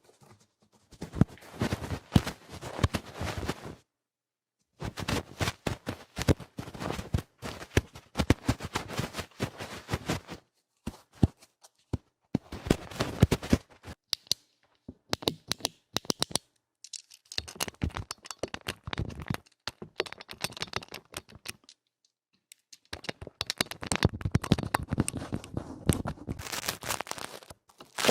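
Ear-cleaning ASMR: vigorous, rough scratching at the microphone's ear, a dense crackling rasp in bouts of one to a few seconds separated by brief silences.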